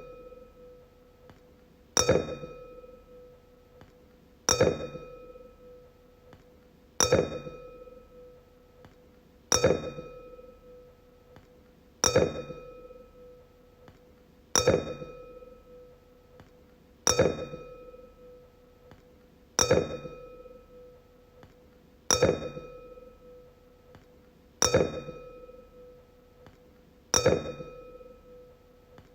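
A wine glass struck over and over, about once every two and a half seconds. Each strike rings with a clear tone and higher overtones that die away over about two seconds.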